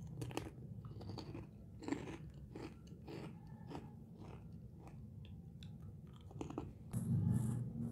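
A crunchy snack being chewed close to the microphone: irregular crisp crunches, over a low steady hum that grows louder near the end.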